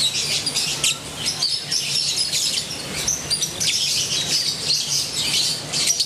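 Many small birds chirping at once, a dense chorus of short, overlapping high calls.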